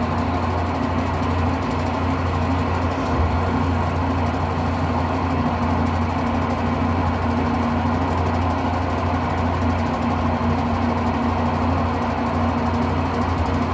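Electrolux Turbo Limpeza 8 kg (LM08) top-load washing machine spinning a load, a steady low drone with a hum above it. It runs unbalanced, which the repairer puts down to broken suspension springs.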